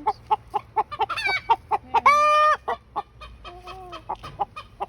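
Chickens and roosters clucking rapidly, several clucks a second, with a long, loud, drawn-out call about two seconds in and shorter calls around it. This is alarm calling at something that is scaring the flock.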